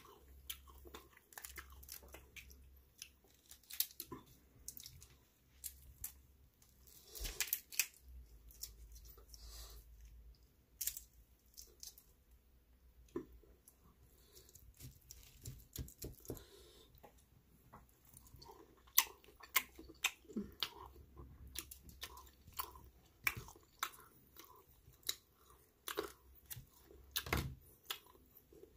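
Eating sounds of grilled octopus and shrimp: chewing and crunching with many irregular sharp crackles, some from shrimp being pulled apart by hand.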